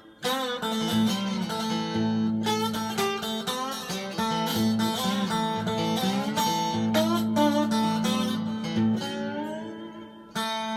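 Retro Grease Monkey three-string guitar with an aluminium composite top, played plugged in with a little reverb: slid notes gliding up and down over a steady low drone, with a brief pause near the end.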